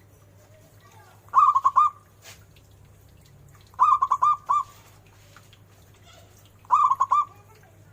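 Zebra dove (perkutut) cooing: three short phrases about two and a half seconds apart, each a quick run of four or five clear notes.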